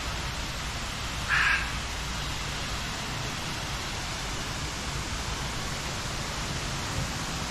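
One short, harsh bird call about a second and a half in, over a steady rushing background noise.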